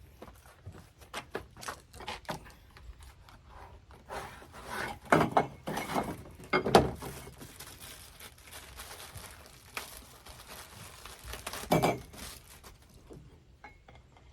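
Squeegee and extension pole being handled and fitted together: a run of clicks and rustling, with a few louder knocks in the middle and again near the end.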